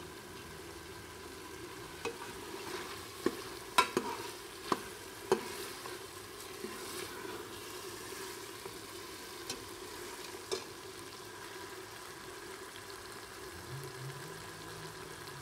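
Minced meat and potato cubes sizzling in hot oil in a pressure cooker pot while being stirred with a metal spoon. The spoon clinks sharply against the pot several times, mostly between about two and five seconds in, and twice more near ten seconds.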